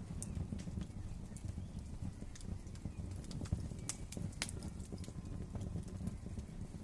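Wood fire crackling in a fireplace: a steady low rumble of burning with irregular sharp pops and snaps, a few of them louder.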